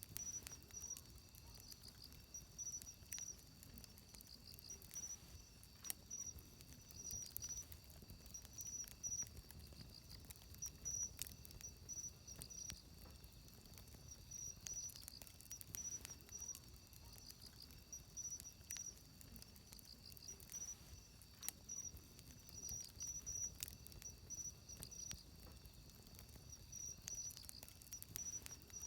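Wood fire crackling faintly with scattered sharp pops, over insects chirping in short repeated trills.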